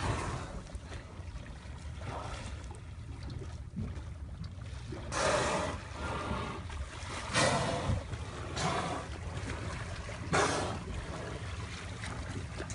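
Water sloshing and splashing in four short gushes, over a steady low rumble.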